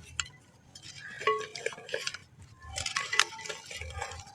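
Lumps of black sand crumbling, giving irregular gritty crackles and sharp clicks in clusters, loudest about three seconds in.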